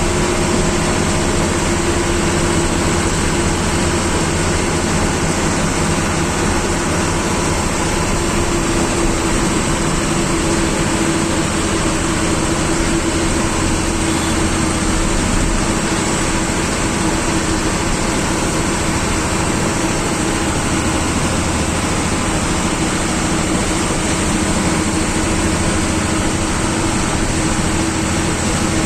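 Government bus's diesel engine and cabin running steadily, heard from inside the driver's cabin: a low engine rumble with a steady whine and road noise.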